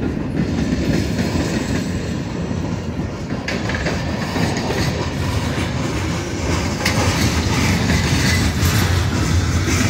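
Freight cars of a mixed manifest train rolling past close by: a steady rumble with the clatter of steel wheels on the rails.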